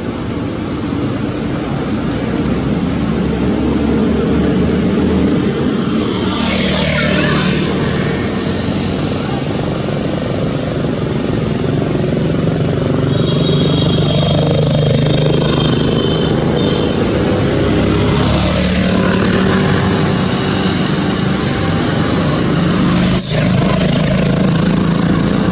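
Motor vehicle engine running with road noise, its hum rising and falling slowly.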